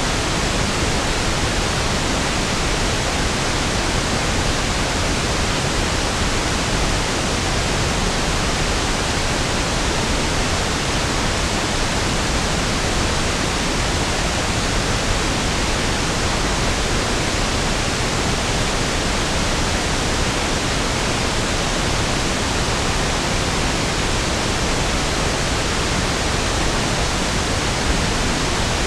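Steady pink noise: an even, unchanging hiss with a soft rushing depth, like a distant waterfall.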